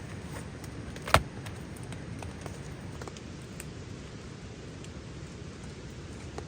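Steady hiss of falling rain, with one sharp click about a second in and a few faint ticks.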